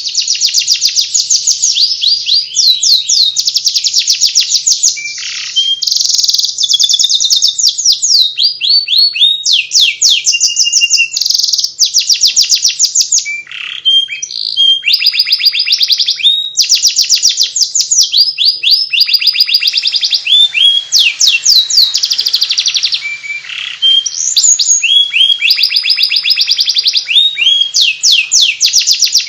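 Domestic canary singing in the 'ngeriwik' style: long, fast runs of rapidly repeated high chirping notes, broken only by short pauses.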